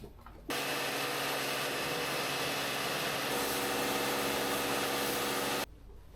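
A machine's electric motor running steadily under a loud hiss. It switches on about half a second in and cuts off suddenly near the end, and its pitch shifts slightly partway through.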